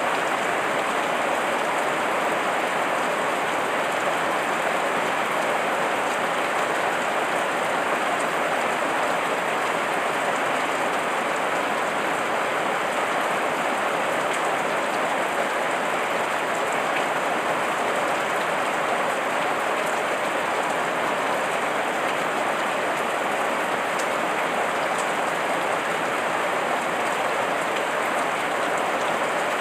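Steady heavy rain pattering on leaves, an even unbroken hiss with scattered drop ticks.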